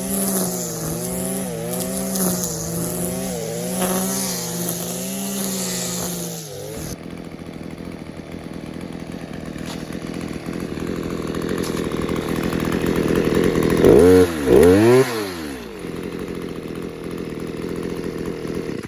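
Stihl KM94 RC combi power head's 4-MIX engine running a line trimmer at high revs, the pitch wavering as the line cuts, freshly rebuilt and running well. Near the end it is revved down and up a couple of times, then it cuts off.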